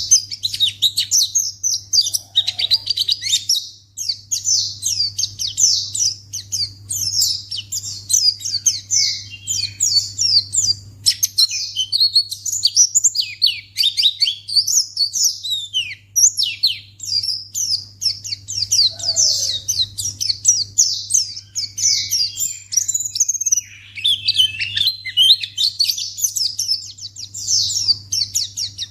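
White-eye (pleci) singing a fast, continuous, high-pitched chattering warble of rapid chirps and trills, the kind of song used as a lure call to draw other white-eyes.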